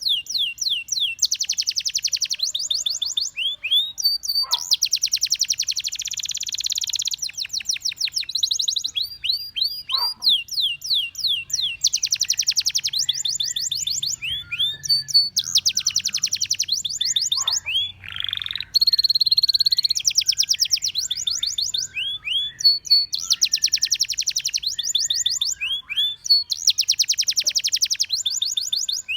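Canary singing: long, fast trills of rapidly repeated notes, broken by short whistled notes that sweep downward.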